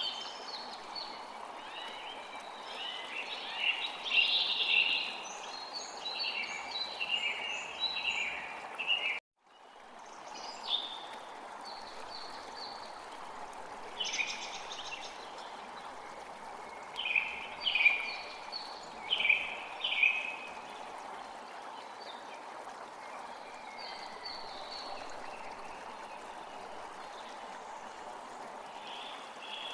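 Small birds chirping in short clustered bursts over the steady rush of a stream. The sound cuts out for a moment about nine seconds in, then fades back up.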